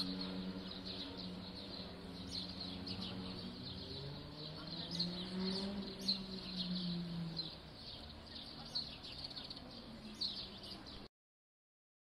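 Small birds chirping in short, high calls over a low steady hum that swells and wavers in pitch about halfway through; the sound cuts off abruptly near the end.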